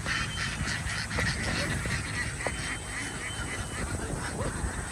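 A large flock of domestic ducks quacking together, with many short calls overlapping in a continuous chorus.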